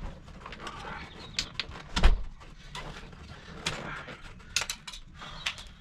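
Scattered clicks and knocks of hand work on a car seat being dismantled, with one loud thump about two seconds in.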